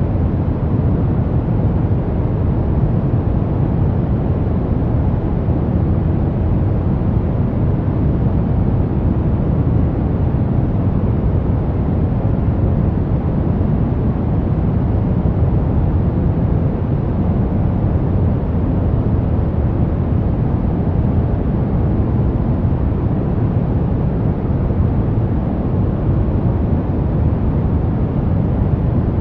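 Steady brown noise: an even, deep hiss with most of its weight in the low end and little treble, unchanging throughout.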